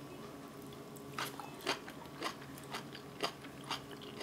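Close-miked mouth-closed chewing of braised kimchi and green pepper: short wet, crunchy clicks about twice a second, starting about a second in.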